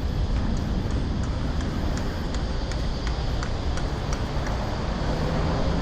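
Outdoor city ambience: a steady low rumble of road traffic, with faint light ticks throughout.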